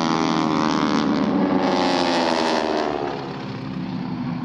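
Aircraft engine flying past, its many-toned drone falling in pitch as it goes by and fading somewhat about three seconds in.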